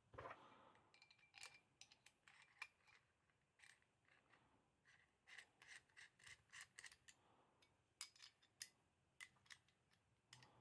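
Faint clicks and a brief light scrape of a KWC Taurus PT24/7 Pro DS airsoft pistol being handled, its small hard parts clicking against each other many times.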